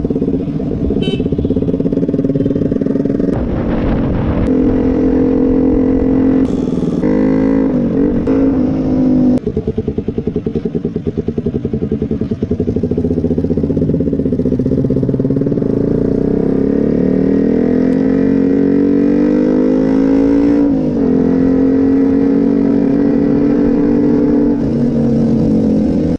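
KTM 125 single-cylinder motorcycle engine through an aftermarket Akrapovic exhaust, riding along: the pitch climbs as it accelerates and drops sharply at gear changes, most clearly about twenty seconds in, with a stretch of off-throttle burble around ten seconds in.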